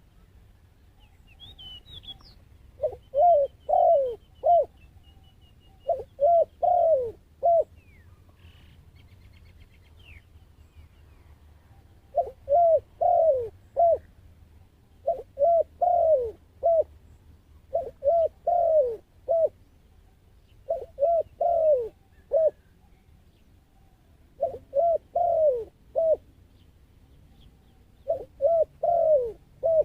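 A dove cooing in a repeated phrase of four or five rolling coos, about eight phrases a few seconds apart. Faint high chirps of a small bird come near the start.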